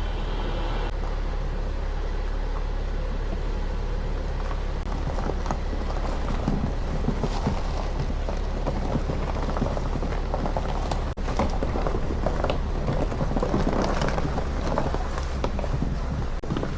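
A vehicle's engine running steadily as it is driven down a snow-covered driveway, with tyres crunching over snow and ice that grows more noticeable from about five seconds in.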